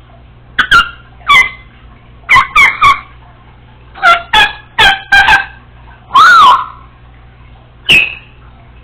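Congo African grey parrot giving about a dozen short, loud calls in irregular groups, with one longer call that rises and falls in pitch about six seconds in.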